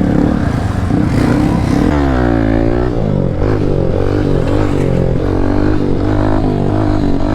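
Motorcycle engine running loud, its pitch dropping about two seconds in and then climbing, then rising and falling repeatedly as the throttle is blipped.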